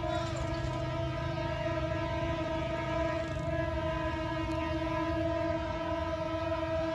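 Diesel locomotive's horn held in one long, steady blast, over the low rumble of the passing train.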